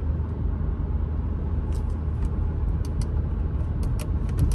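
Engine of a 2014 Audi A4 2.0T, a turbocharged four-cylinder, running as a steady low rumble, with a few light clicks scattered through the second half.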